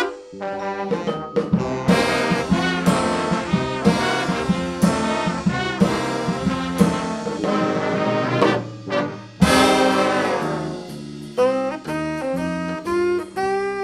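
Brass-led band with trombones and trumpets playing an up-tempo jazzy tune, with a loud accented hit about nine and a half seconds in.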